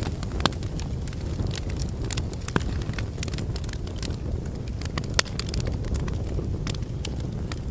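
Wood logs burning in a fireplace: a steady low rumble of flames with frequent sharp crackles and pops, and a few louder snaps scattered through.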